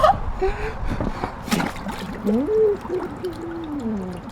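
Hot tub water splashing and gurgling as a person puts their face under, with a sharp splash about a second and a half in. Muffled, gliding vocal sounds run through it.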